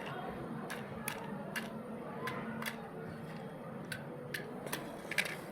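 About a dozen sharp clicks at irregular intervals over a steady background noise.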